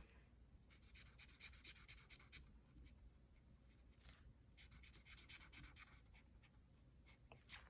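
Faint rustling and light handling of paper money and envelopes, in short scattered touches.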